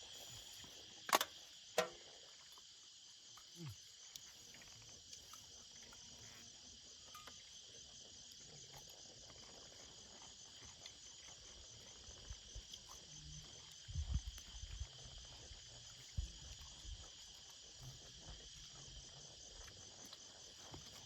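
Night insects chirring steadily in a high, pulsing band. Two sharp clicks come about a second in, and a few low bumps follow later.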